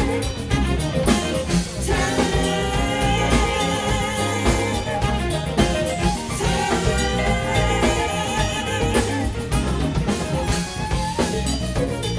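Live soul band playing, with drum kit and guitar over a heavy low end, and a singing voice.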